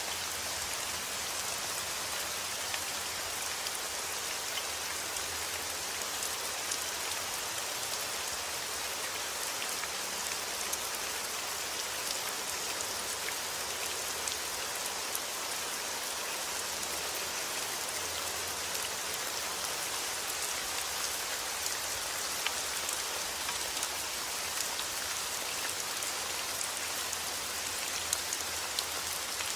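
Steady heavy rain falling outdoors, a dense even hiss of drops hitting surfaces with many small individual drop ticks.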